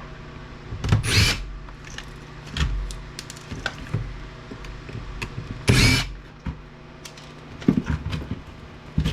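A power drill or driver whirring in two short bursts, about a second in and again near six seconds, while an APC battery backup unit is taken apart, with scattered clicks and knocks of parts being handled between.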